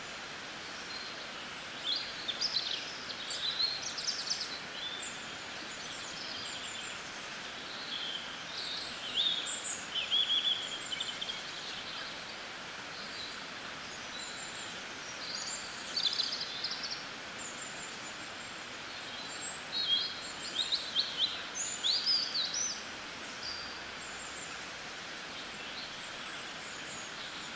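Small birds chirping and trilling in several short bursts over a steady outdoor hiss.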